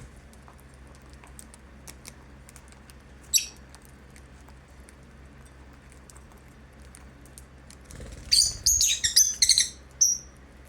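Lovebirds chirping: one short high chirp about three seconds in, then a quick run of high chirps near the end. Between them, faint scattered clicks and ticks.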